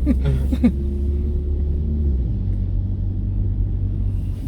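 Low, steady rumble of a car's engine and road noise heard from inside the cabin, its note shifting upward about two seconds in.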